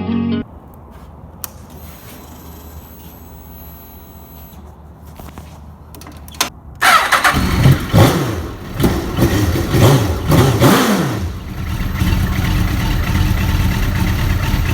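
2001 Suzuki GSX-R1000's inline-four engine starting about seven seconds in, after a few seconds of faint background. It is revved in several quick throttle blips, then settles to a steady idle.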